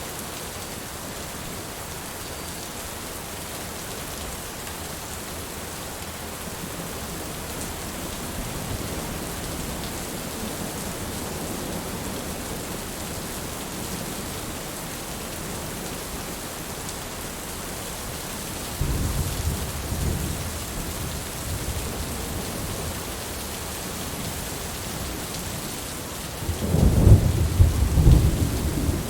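Steady rain falling, with rolling thunder: a low rumble about two-thirds of the way through and a louder one near the end.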